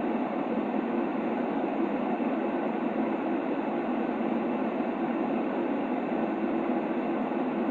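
Steady white noise for soothing a baby to sleep: an even, unchanging hiss weighted toward low-middle pitches, with little deep bass or high treble.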